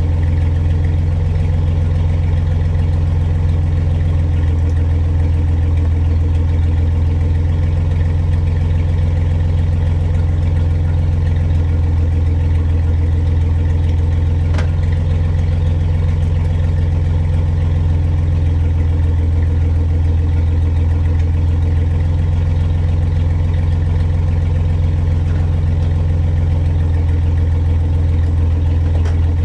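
Truck engine idling steadily, an even low drone that does not change. A faint click sounds about halfway through.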